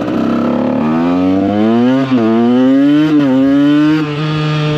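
KTM EXC 125's two-stroke single-cylinder engine accelerating hard, its pitch climbing with two brief sharp dips as it shifts up, then dropping and settling to a steady cruise near the end.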